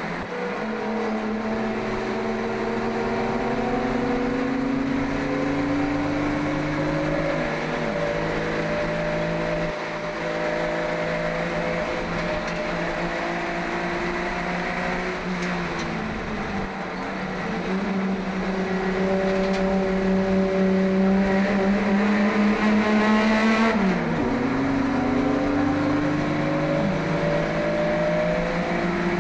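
1971 Holden Kingswood HQ race car's engine under load, heard from inside the cabin. Its pitch climbs steadily and falls sharply about seven seconds in and again near the end.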